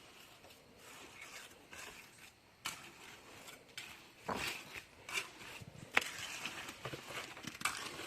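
Scattered scrapes and knocks of a mason's trowel working wet mortar, a few sharp clicks standing out among quieter scraping.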